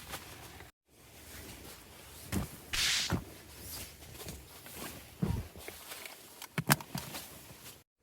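Handling noises from pitching camp: rustling, a few dull thumps and two sharp knocks near the end that are the loudest. The audio breaks off twice at edit cuts.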